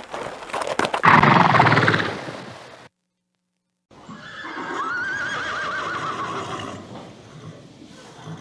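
Horse neighing: a few clicks of hooves and a loud neigh in the first two seconds, then after a short silence a second whinny with a quavering, slowly falling pitch.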